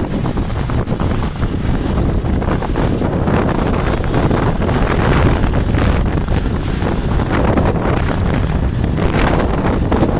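Steady, loud wind noise buffeting the microphone, a dense low rumble with no clear engine tone.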